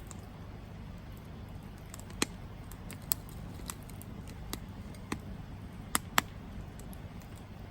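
Campfire crackling: sharp pops and snaps of burning wood at irregular intervals, the loudest about six seconds in, over a low steady rumble.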